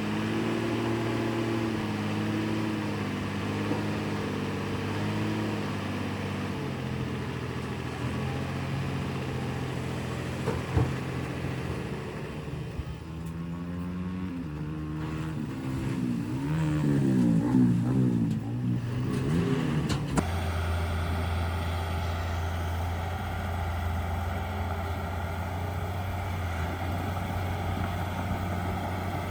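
Heavy diesel engines of earthmoving machines running, with the pitch shifting and rising and falling under load, loudest about two-thirds in. The sound then changes abruptly to a steady low engine hum.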